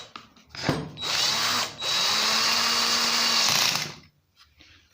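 Electric drill-driver tightening screws on a chainsaw part: a short run, then a steady run of about two seconds with a high motor whine.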